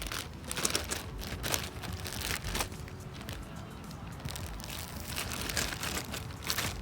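Irregular rustling and crinkling noises in several short bursts, with faint music underneath.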